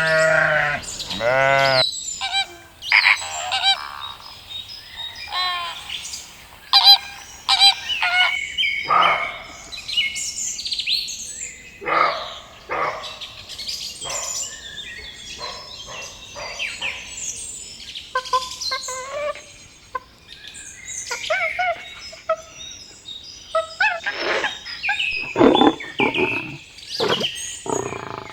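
Birds chirping and calling in many short, varied notes. The first couple of seconds hold the end of a bleat.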